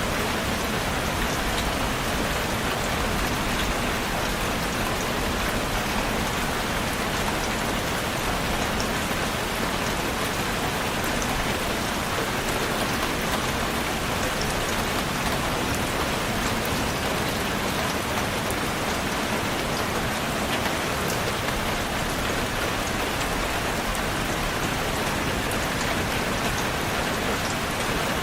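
Steady rain falling on a surface, an even wash of noise with faint scattered drop ticks.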